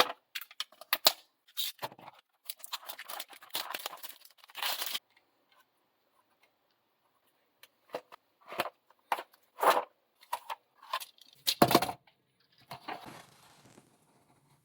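Toy car packaging being handled and opened by hand: short crackles, clicks and tearing of plastic and cardboard, in two spells with a pause of a few seconds in the middle.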